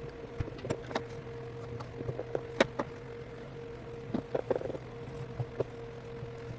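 Scattered light clicks and short scrapes of a small tool working adhesive residue off an opened iPhone 8, with a sharper click a little after two and a half seconds in, over a steady background hum.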